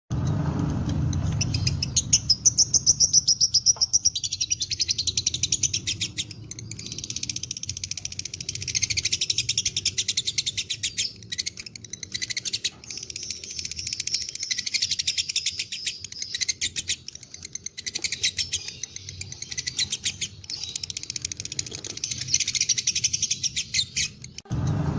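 Lovebird giving long 'ngekek' trills: rapid, chattering runs of high-pitched notes lasting several seconds each, broken by short pauses. A low rumble sits under the first two seconds and returns near the end.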